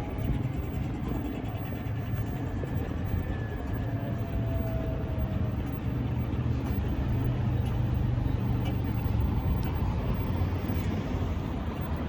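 Steady rumble of road traffic on a city street, swelling slightly late on, with a faint brief whine about four seconds in.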